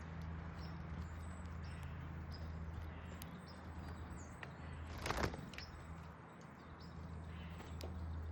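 Small backyard birds chirping at a feeder in short high calls, over a steady low hum. A single louder rustle or thump comes about five seconds in.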